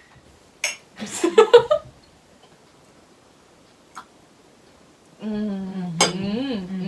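A person's voice: a short burst of voice sounds about a second in, then a long held, humming-like note of about two seconds near the end that wavers once. A couple of faint clicks come between them.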